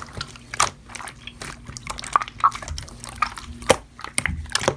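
Slime being played with, making irregular wet clicks and pops.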